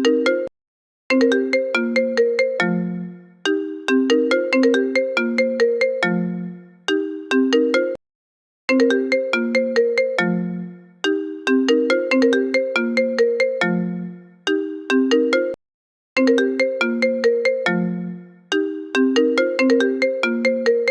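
An iPhone ringtone looping: a short melody of quickly fading pitched notes, played twice in a row, then a brief silence before it starts again, about every seven and a half seconds.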